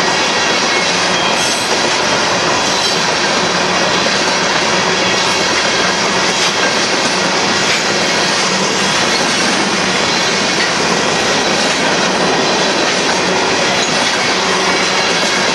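A long freight train of covered hopper cars rolling past at close range: a loud, steady rumble and rattle of wheels on the rails that goes on without a break.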